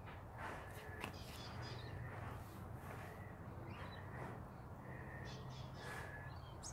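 Faint outdoor ambience: a bird calling now and then, and soft puffs of breath as soap bubbles are blown through a bubble wand.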